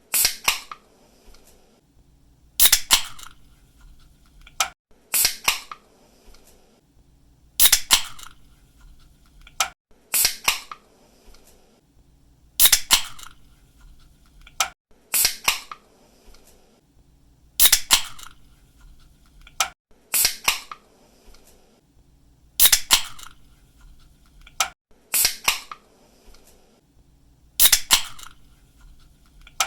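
Aluminium drink can being snapped open again and again, about once every two and a half seconds. Each opening is a small click of the pull tab, then a loud sharp crack with a short hiss as the seal breaks.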